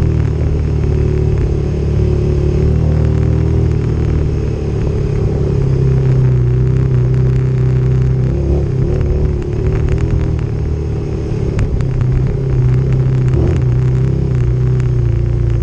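Motorcycle engine running at a fairly steady speed, its pitch shifting slightly, with scattered clicks and rattles over it.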